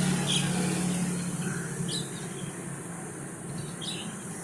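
Steady engine hum of passing traffic that fades after about a second, with a few short, high bird calls spaced out over the seconds that follow.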